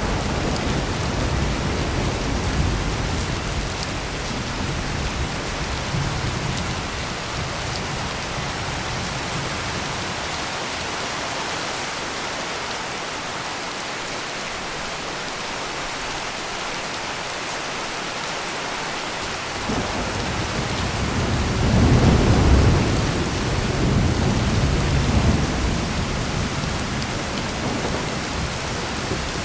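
Heavy rain pouring steadily, with low rumbling thunder that fades away over the first several seconds. About two-thirds of the way through a new peal of thunder starts suddenly, is loudest a couple of seconds later and rolls on before dying down.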